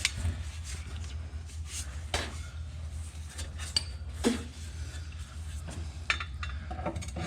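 Scattered light metallic clinks and knocks of exhaust pipe and hand tools as the exhaust is angled onto its hanger, over a low steady hum.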